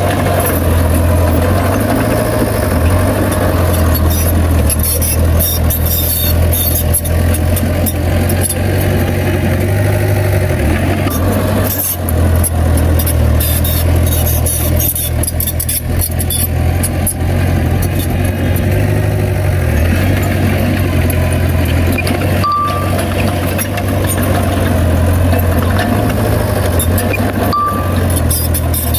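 Bulldozer's heavy diesel engine running steadily with a deep drone that swells and eases slightly, with scattered metallic clicks and rattles over it.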